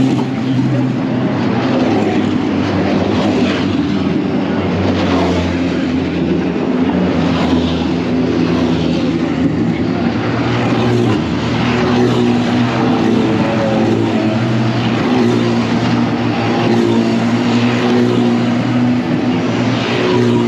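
Car engines running at low revs, a deep steady engine note that shifts only slightly in pitch.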